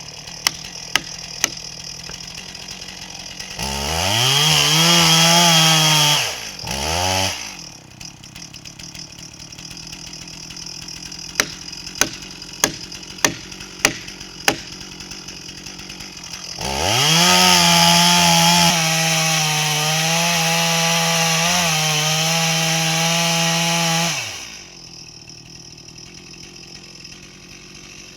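Two-stroke chainsaw idling, then revved up twice to full throttle: a short burst, then a longer run where the pitch dips slightly as it bites into wood, before it drops back to idle. Sharp ticks come a few times near the start and six times in a row in the middle.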